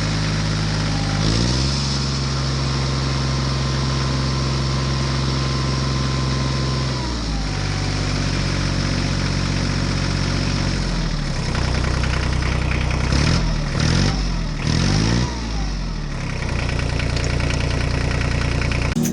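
Tractor engine running steadily, its pitch stepping up about a second in and dropping around the middle. Near the end come several quick revs rising and falling.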